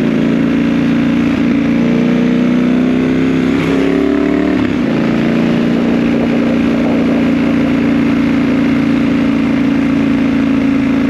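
A motor vehicle engine running at steady high revs, its pitch dipping briefly and then settling back to a steady level about four to five seconds in.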